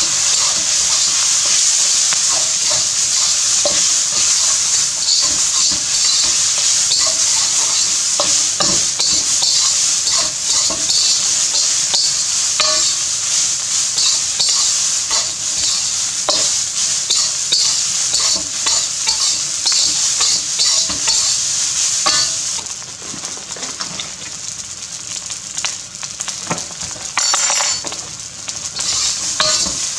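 Fried rice with bacon sizzling in a hot wok as it is stir-fried with a metal spatula, the spatula scraping and clicking against the wok. About 22 seconds in, the sizzle drops quieter while the stirring pauses.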